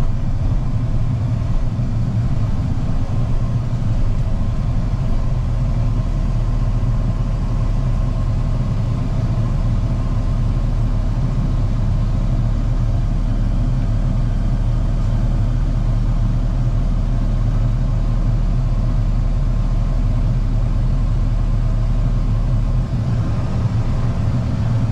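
Truck engine running with a steady low drone and road noise, heard from inside the cab.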